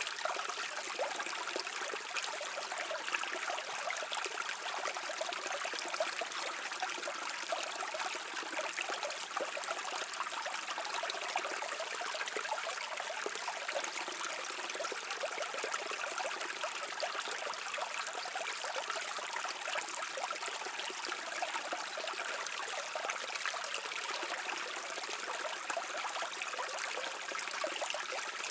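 Brook water flowing steadily, a continuous splashing babble with no low rumble.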